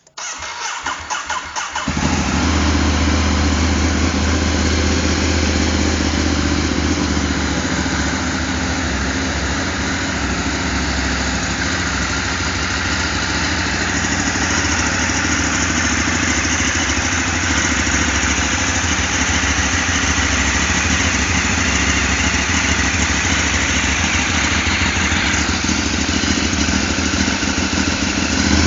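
Ducati 848evo's L-twin engine, on its stock exhaust, cranked by the starter for about two seconds. It catches and settles into a steady idle.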